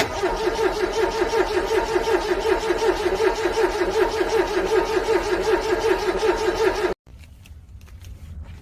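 Car engine cold-cranking on its starter without catching, with a fast, even pulse from the compression strokes. The cranking starts suddenly and stops abruptly near the end.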